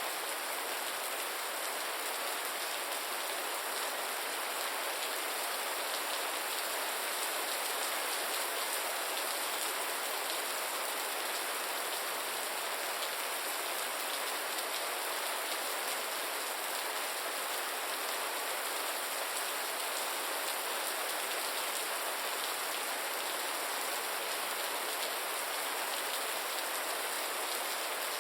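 Gentle rain falling steadily: an even hiss with no change in level.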